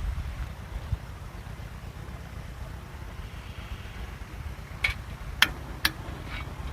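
A steady low rumble with three sharp clicks or knocks close together about five seconds in, the middle one the loudest.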